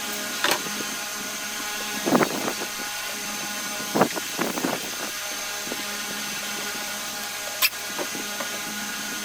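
Metal hand tools and engine parts clinking and knocking a handful of times during engine disassembly, over a steady background hum.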